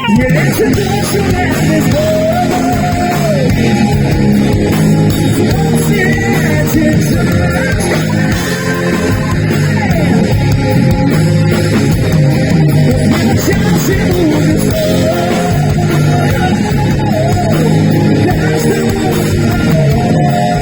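Live heavy metal band playing loudly: distorted electric guitars, bass and drums, with a melodic lead line that bends in pitch on top.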